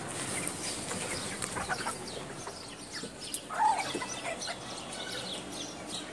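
Birds calling in the background: scattered short chirps, with one louder call about three and a half seconds in.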